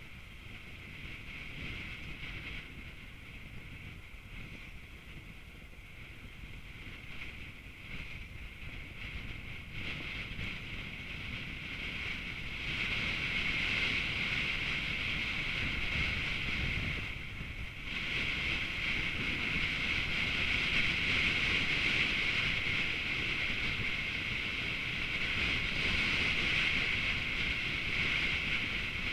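Wind and road noise from a moving vehicle, a steady hiss over a low rumble that grows louder about twelve seconds in, with a brief drop a few seconds later.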